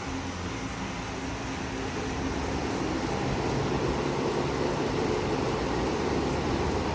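PTAC air conditioner running just after being switched on, its compressor and fan noise building gradually louder. The unit has a fresh charge of R-410A after a capillary-tube leak repair and is cooling normally.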